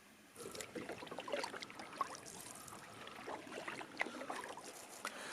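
Canoe being paddled, with light splashing and water trickling off the paddles in an irregular patter. It starts about half a second in.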